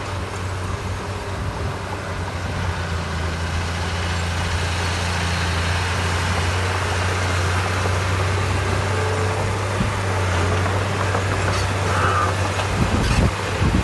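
Heavy diesel engine of earthmoving machinery running steadily with a low drone, with a few short low thumps near the end.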